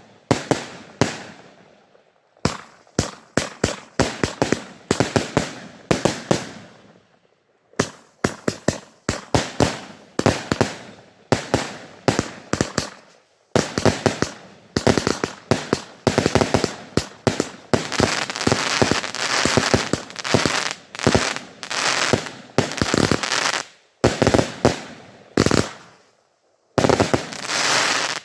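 A 20mm fireworks battery (Space Galaxy TXB514 Triplex) firing in rapid sequence: a dense run of sharp launch thumps and bangs with a few short pauses. The second half fills with thick crackling between the reports.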